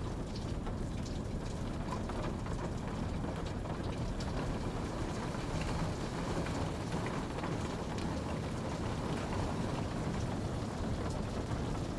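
Steady rainfall, an even rushing wash with scattered faint drop ticks on top.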